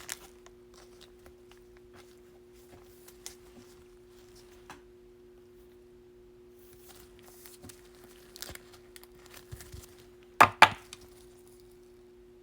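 Baseball cards being handled: faint rustles and light taps, then two sharp clicks close together about ten seconds in, over a steady low hum.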